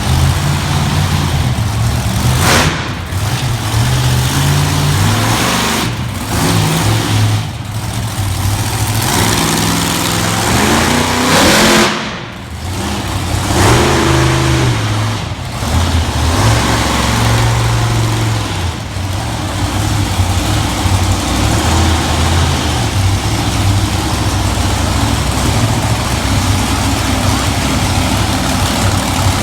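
Monster truck engine revving loudly, its pitch climbing and falling again and again, with one brief drop in loudness about twelve seconds in.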